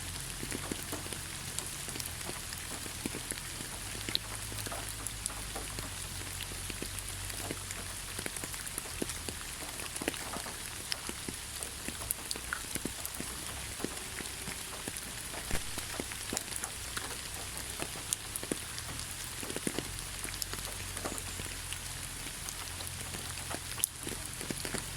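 Steady rain, with many separate drops landing close by as short sharp ticks over the even hiss, and a low steady rumble underneath.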